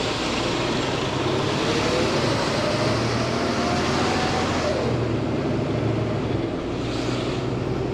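Semi truck engine and road noise heard from inside the cab while driving. The engine note climbs steadily for about three seconds, then drops away about halfway through.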